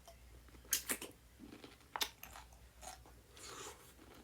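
Person chewing a small kosher dill pickle close to the microphone, with a few sharp crunches and softer chewing between them.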